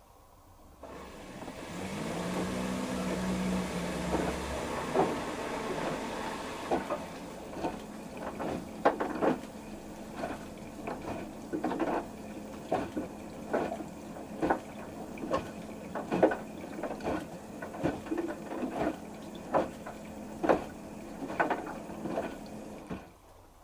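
LG TurboWash 360 direct-drive washing machine starting its wash. For the first few seconds water rushes in with a pump running. Then the drum turns with a steady motor hum while the wet load thuds and splashes about once or twice a second, and it all stops just before the end.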